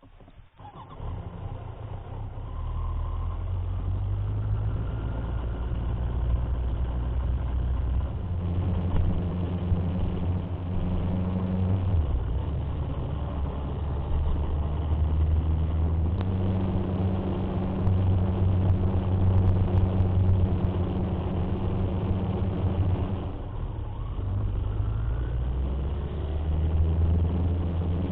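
Motorcycle engine running under way, its pitch stepping up and down several times as the rider changes speed and gear.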